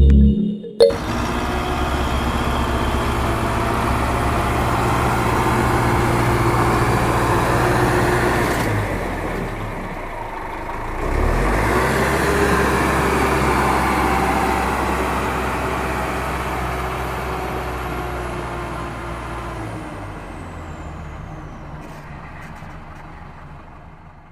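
A tractor's engine running steadily. It drops off briefly about ten seconds in, picks up again, then fades away gradually near the end.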